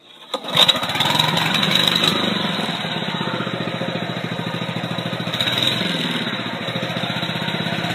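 Honda walk-behind lawn mower's small four-stroke engine catching about half a second in and settling into steady running. It starts easily with its carburettor, magneto and flywheel still wet from a hose wash-down.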